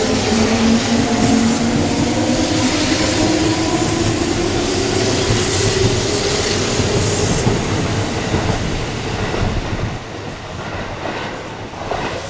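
Kintetsu electric train moving off, its motors whining in several tones that climb slowly in pitch, over rumble and rail noise. The sound eases a little in the last couple of seconds.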